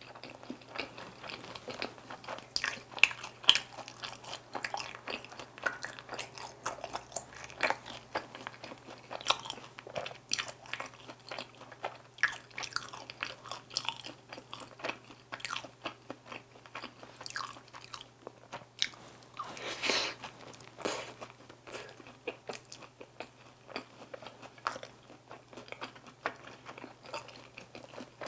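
Close-miked chewing of crispy, glazed Korean fried chicken bites (dakgangjeong): a dense, irregular run of crisp crunches and wet chewing sounds.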